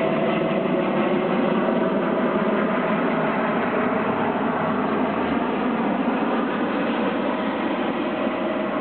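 Helicopter running loud and steady, its turbine whine held at one pitch over the rotor noise.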